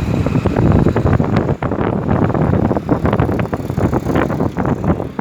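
Wind buffeting the microphone in irregular gusts over a low, steady rumble.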